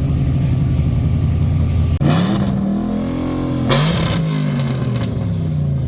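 A car engine running with a steady deep note, then revved twice after a brief break about two seconds in, its pitch climbing and sinking back each time.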